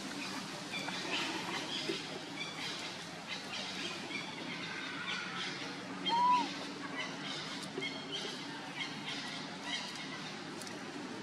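Small birds chirping in forest, short high calls scattered throughout over a steady low hum. About six seconds in comes one louder, short call that rises and falls in pitch.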